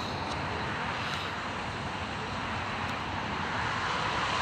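Steady rumbling roar of approaching trains, growing slightly louder near the end.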